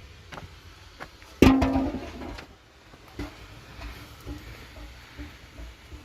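Sparse plucked-string music: one loud note rings out about a second and a half in and fades over half a second, followed by a few faint clicks and soft notes.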